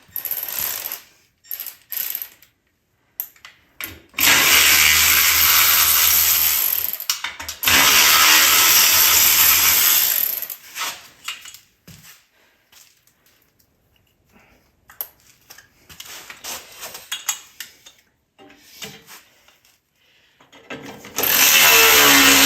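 Handheld power tool spinning a 10 mm socket to back out the bolts of a regulator, in two runs of about three seconds each, with a third starting near the end. Between the runs, small clicks and the rattle of parts being handled.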